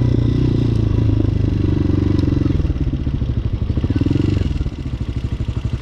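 Hawk 250 motorcycle's single-cylinder engine running under way, then easing off about halfway through into a slower, evenly pulsing beat.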